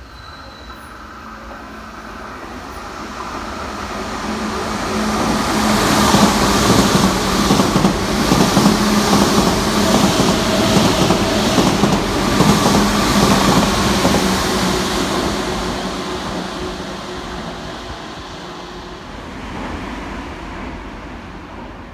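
Tokyu 8500 series stainless electric train approaching and passing at speed, its wheels clattering in an even rhythm over a rail joint above a steady low hum. The sound swells, is loudest through the middle, and fades as the train moves away.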